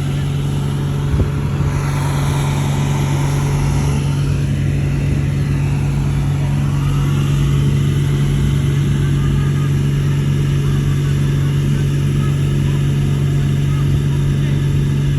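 Bulldozer's diesel engine running steadily under load with a constant low drone, and a single knock about a second in.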